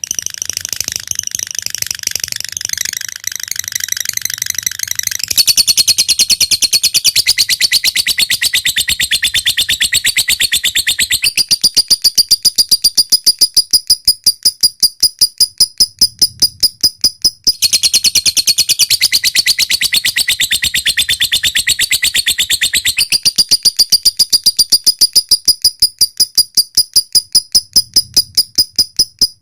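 Lovebird singing its long 'ngekek' trill: a rapid, even train of sharp, high chirps, several a second, that runs on for many seconds with one brief break about two-thirds of the way through. It opens with a few seconds of busier, denser chatter.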